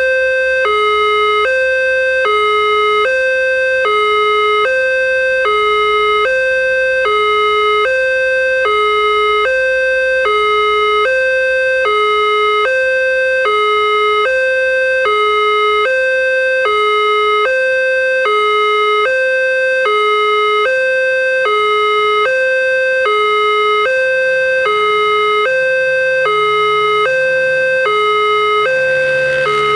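Railway level-crossing warning alarm sounding continuously: an electronic two-tone signal alternating high and low, each tone lasting about half a second, warning that a train is approaching. A low drone comes in during the last few seconds.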